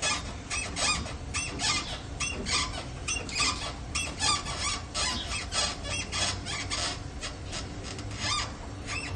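Car's rear suspension squeaking over and over, short high-pitched squeals about two or three a second: the rear-suspension noise being diagnosed.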